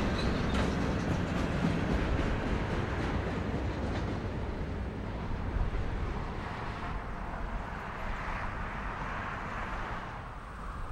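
Freight train of boxcars rolling over a bridge, its wheels rumbling and clicking; the noise dies down through the second half as the end of the train passes and moves away.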